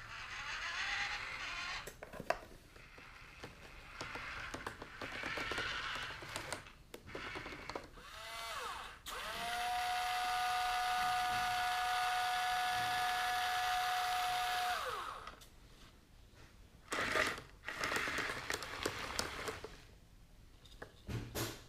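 Small electric motors and gearboxes of a Hobby Engine HE0715 RC track loader running in short spells. In the middle comes one long steady whine of about six seconds that winds up at the start and winds down at the end.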